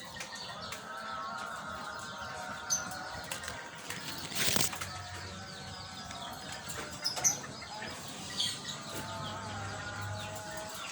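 Lovebirds flapping their wings, with one short burst of flapping about four and a half seconds in, and brief high chirps now and then.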